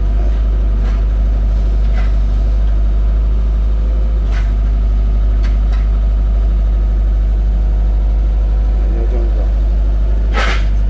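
Engine running steadily while a grapple loads split oak firewood into a truck bed, with a few short knocks as the wood lands and a louder knock near the end.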